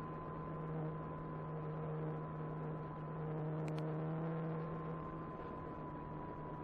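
Brushless electric motor and propeller of an E-flite Apprentice 15e RC trainer airplane running at a steady throttle in flight, a steady whine holding one pitch.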